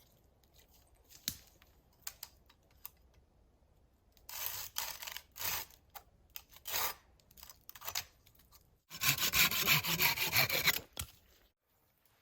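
Hand saw cutting wood: a few short separate strokes, then a quick, steady run of sawing for about two seconds that stops abruptly.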